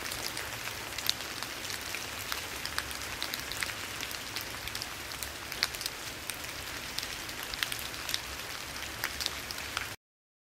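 Rain falling on leaves: a steady patter with many individual drops ticking sharply on top. It cuts off suddenly near the end.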